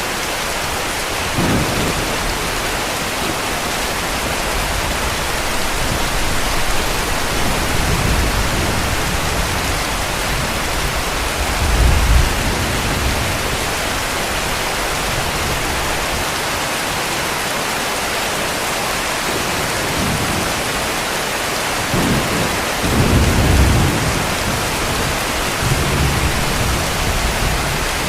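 Heavy rain falling steadily, with several low rolls of distant thunder. The loudest rolls come about 12 seconds in and around 23 seconds in.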